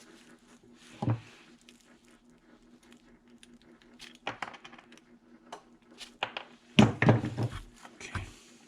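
Hand tools and small metal pump parts clicking and knocking as the valves are worked loose from a pressure washer pump. There is a scattered series of light clicks with a louder knock about a second in, and the busiest, loudest handling about seven seconds in, over a faint steady hum.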